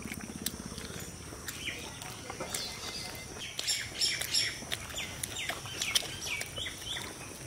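Small birds chirping: a run of quick, falling chirps starts about two and a half seconds in, over scattered light clicks.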